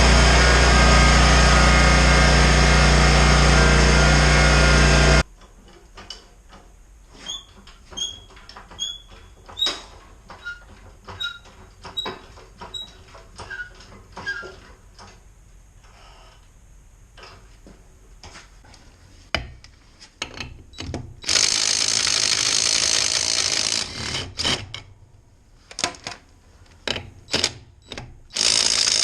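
A small engine running steadily stops abruptly about five seconds in. After that come clicks and knocks of tools being handled, then two bursts of a power tool: one lasting a couple of seconds, another near the end.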